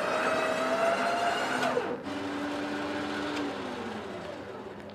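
Electric motor on a recovery rig, started at the press of a button and whining at a steady pitch. About two seconds in the pitch drops sharply to a lower steady tone, then slides lower and dies away near the end.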